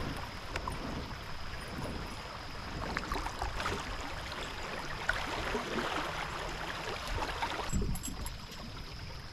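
Water trickling and lapping around a kayak on a creek, with small crackling splashes and a low rumble of wind on the microphone.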